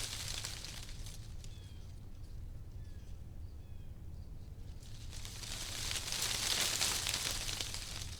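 Wind gusting through tree leaves, a rustling hiss that fades after the first second and swells again from about five seconds in. A few faint bird chirps sound in the lull between the gusts.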